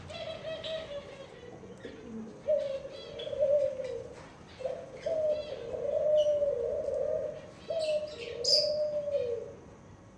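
Pigeons cooing: a run of low coos, each one to two seconds long and sliding down slightly at the end. Short, higher-pitched bird chirps are scattered over them, the loudest near the end.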